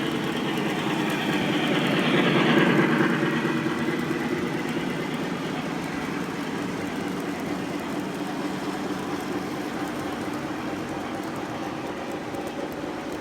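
Lionel model train running on the track, its wheels and motor rumbling steadily. It grows louder as it passes close about two to three seconds in, then eases back.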